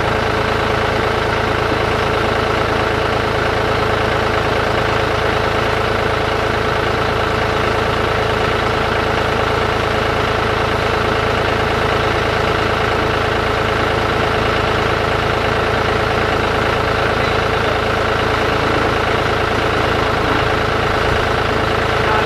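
John Deere tractor engine running steadily at idle.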